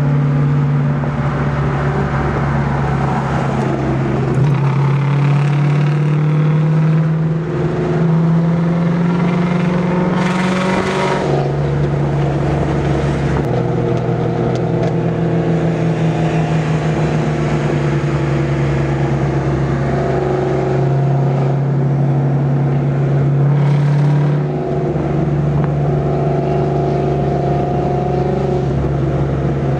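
Car engine heard from inside the cabin while driving, a steady drone. Its pitch climbs slowly as the car accelerates, then drops back at about eleven seconds as it shifts up, with a brief rush of noise just before. The pitch steps again at about thirteen and twenty-four seconds.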